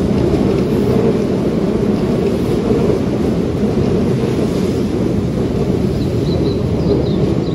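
Keihan 13000 series electric train running past along the platform: a loud, steady rumble of wheels on rail, with a few faint high squeaks near the end.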